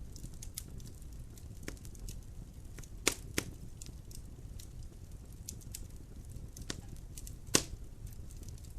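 Wood fire crackling in a fireplace: a low steady rumble of flames with scattered small snaps, two sharp pops about three seconds in and a loud pop near the end.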